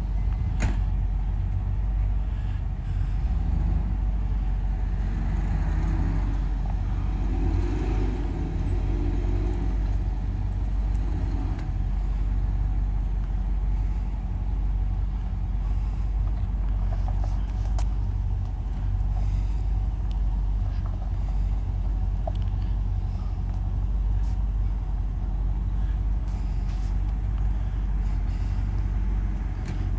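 Four-wheel-drive vehicle's engine idling, a steady low rumble.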